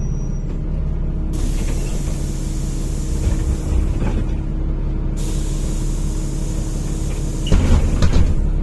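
NefAZ-5299 city bus idling at a stop, with a long hiss of compressed air from its pneumatic system for about four seconds, then a few knocks near the end.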